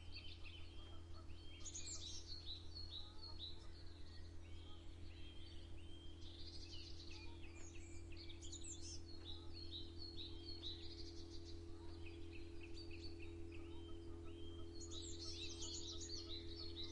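Songbirds singing in repeated bouts of quick chirping phrases every few seconds, over a steady low hum.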